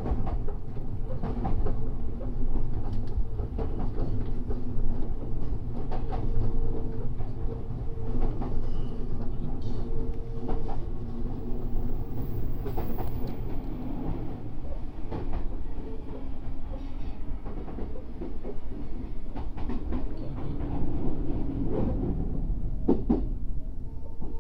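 Odakyu 8000 series electric train running on the line, heard from the leading car: a continuous low rumble with a steady hum, and clacks of the wheels passing rail joints, a few loud ones near the end.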